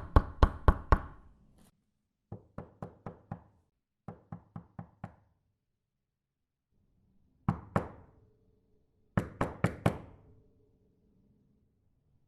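Knocking on a door in quick groups of about five raps: a loud group, two softer groups, a double knock, then another loud group of five. A short ringing tone lingers after the later loud knocks.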